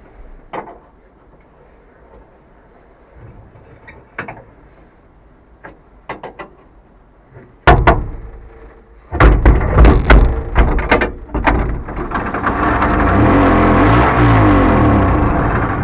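T-150K tractor's diesel engine being started: a few light clicks and knocks, a loud knock about 8 s in, a clatter of firing knocks from about 9 s, then the engine catches and settles into a steady run that grows louder until near the end.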